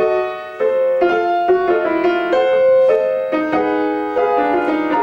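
Piano played in a lesson: a phrase of separate struck notes and chords, resuming suddenly right at the start after a short pause.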